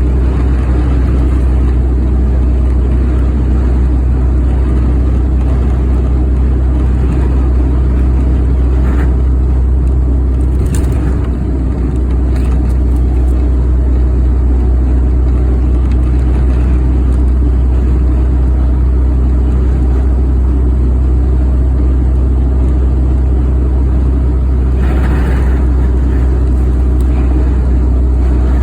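Steady road and wind noise of a moving vehicle heard from inside the cabin, a constant deep rumble. A few short louder swells of noise come about a third of the way in and again near the end.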